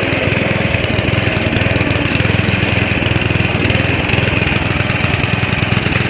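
Riding lawn mower's small engine running at a steady speed while the mower is driven.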